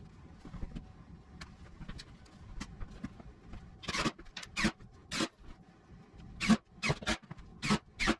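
A series of short, irregular scraping strokes, soft at first and louder and more frequent from about four seconds in.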